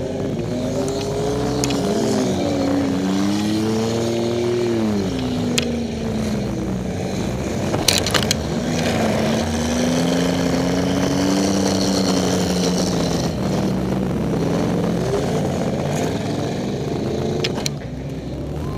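Demolition derby car's engine revving up and down as it is driven, heard from inside the cabin, with a few sharp knocks, the loudest about eight seconds in.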